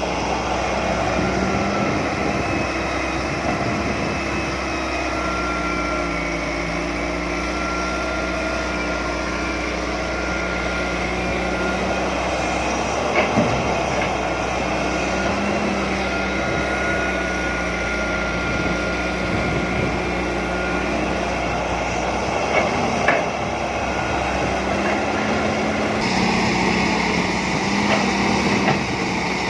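John Deere 595D excavator working, its diesel engine running steadily with the pitch shifting a little up and down. A few short knocks stand out, one near the middle and a couple later.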